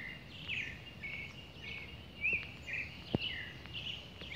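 Several birds chirping and calling in short, varied phrases over a low steady background rumble, with one sharp click about three seconds in.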